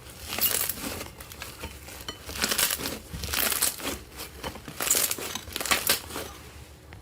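Slime being squeezed and pressed by hand, crackling and crinkling in irregular bursts.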